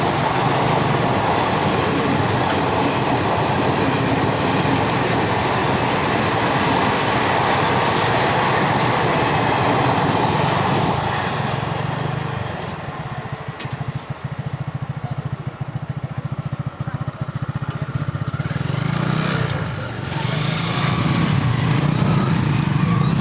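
Passenger coaches of an express train running past at speed, a steady rumble of wheels on rail that fades about eleven seconds in as the last coach goes by. Motorcycle engines then idle, and they grow louder near the end as the riders pull away across the tracks.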